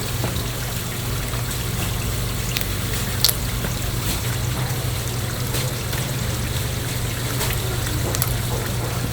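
Liquid trickling over a steady low machine hum, with a few sharp clicks, one about three seconds in.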